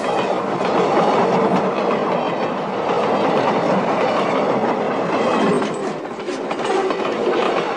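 A train running past on the rails: a steady noise of wheels and cars rolling along the track.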